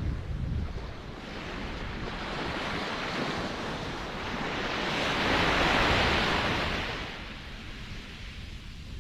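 Ocean surf: a wave's rush of foam and water builds from about a second in, peaks past the middle and fades away. Wind rumbles on the microphone at the start.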